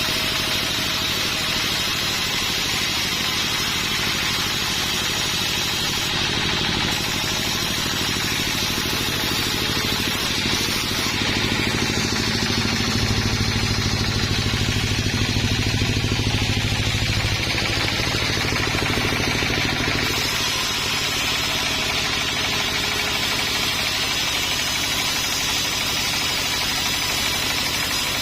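A sawmill engine running steadily, growing louder and deeper for several seconds in the middle before settling back.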